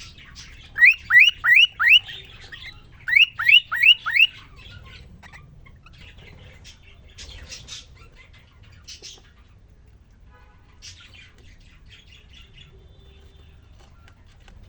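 Male cockatiel singing: two quick runs of four or five rising whistled notes, one about a second in and another about three seconds in, then only faint scattered chirps and clicks.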